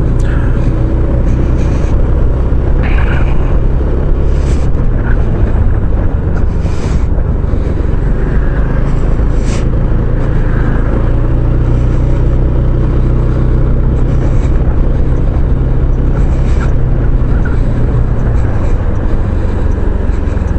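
Automatic maxi-scooter riding along: its engine drone stays steady under a heavy rush of wind on the microphone, with a few short high hisses here and there.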